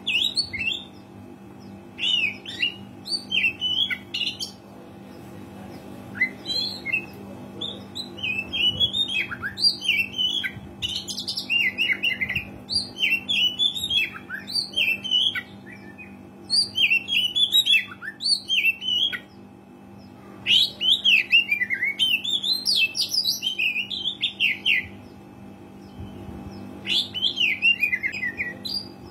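Oriental magpie-robin singing in bursts of rapid, varied whistled and chattering phrases, with short pauses between bursts. A faint steady low hum runs underneath.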